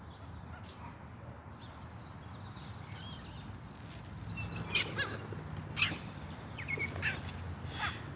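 Seagulls calling: a series of short cries starting about halfway through, over a low steady hum.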